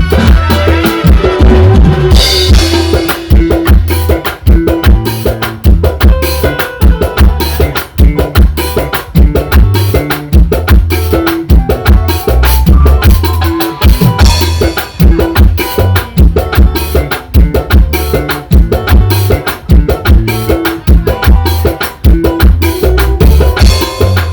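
Loud band music driven by a drum kit: a busy, steady beat of drum hits over a heavy bass line.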